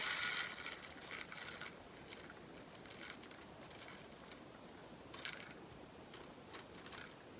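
Small resin diamond-painting drills pouring and rattling into a plastic storage pot for about a second and a half, followed by scattered light clicks and taps.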